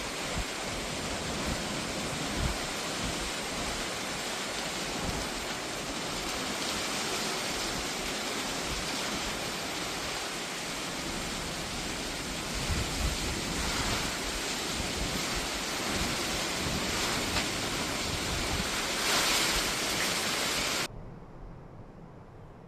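Typhoon storm noise: a steady rush of strong wind and water, cutting off abruptly near the end.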